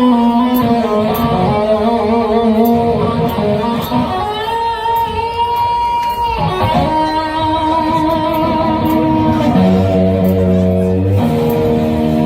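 Live band music led by electric guitar, playing held notes that bend and slide in pitch, with a fuller, lower chord coming in briefly near the end.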